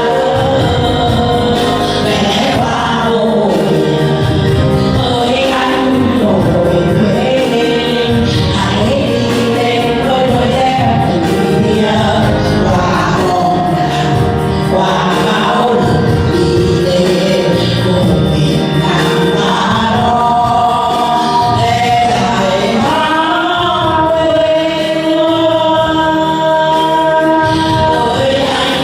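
A group of voices singing a Vietnamese song together over music, with long held notes.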